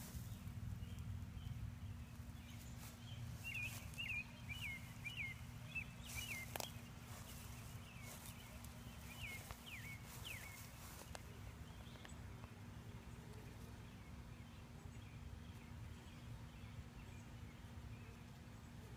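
Outdoor garden ambience: a bird gives a quick run of short, sharp chirps for several seconds in the first half, over a low rumble and a faint steady hum, with a few clicks from handling or footsteps.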